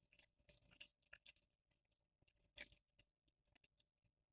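Faint chewing of spicy instant ramen noodles: soft, scattered wet mouth clicks, with a slightly louder one a little past halfway.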